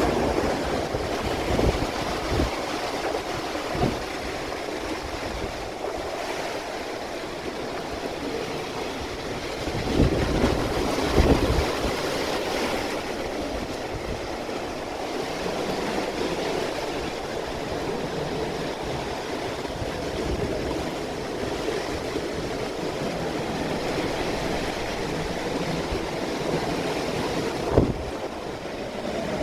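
Typhoon wind and driving rain: a steady rushing noise, with gusts buffeting the microphone several times, hardest about ten to eleven seconds in.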